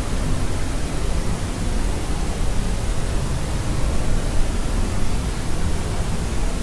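Steady white noise for sleep, an even hiss with more weight in the low end and no changes or events.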